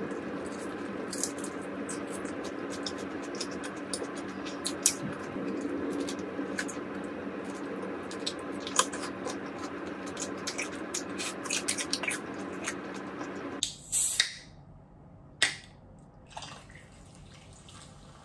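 Close-up eating sounds of fried chicken being bitten and chewed: many small crisp crunches and wet mouth clicks over a steady hum. The hum cuts off suddenly about thirteen seconds in, and two louder single sounds follow.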